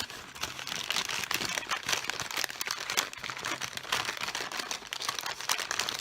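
Packaging crinkling and rustling in a steady run of dense crackles as a Lush Candy Mountain bath product is worked out of its wrapping.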